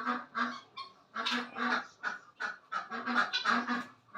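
Domestic fowl calling over and over in harsh, honking calls, many in quick pairs, from a flock of ducks and guineafowl.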